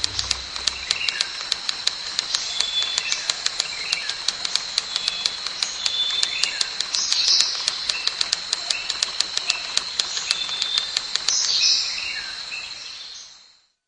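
Outdoor wildlife ambience: short bird chirps over a steady high tone and regular clicking, about four clicks a second, fading out near the end.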